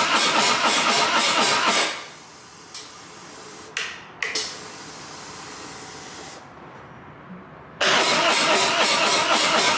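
Harley-Davidson Road Glide V-twin being cranked by its starter in a steady, rhythmic chug without firing. The cranking stops about two seconds in, a few sharp clicks follow, and it cranks again from about eight seconds in: the bike is not starting.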